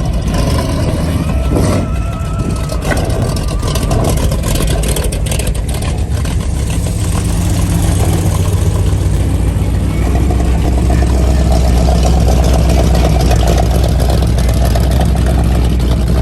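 Car engine running steadily with a low exhaust note, getting louder about ten seconds in.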